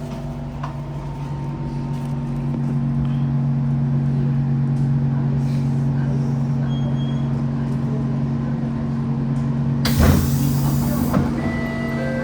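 Siemens C651 train: its equipment hums steadily and low. About ten seconds in comes a loud, roughly one-second hiss of compressed air from the train's pneumatics.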